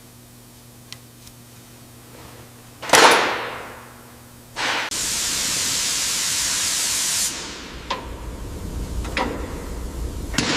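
Workshop noises: a sudden loud whoosh about three seconds in that dies away over a second, then a steady hiss for about two and a half seconds that cuts off sharply, followed by a few knocks.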